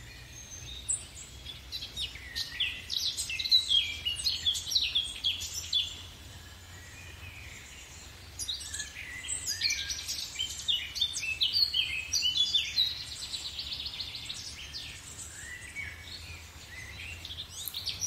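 Songbirds chirping and singing in two busy spells with a short lull between. The second spell holds a fast, even trill. A faint low steady hum runs underneath.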